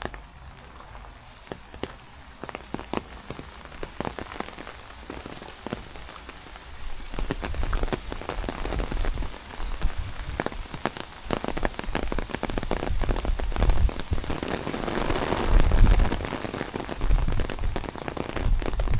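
Heavy rain falling, with many sharp drop hits close by. From about seven seconds in, gusts of wind rumble on the microphone and grow stronger toward the end.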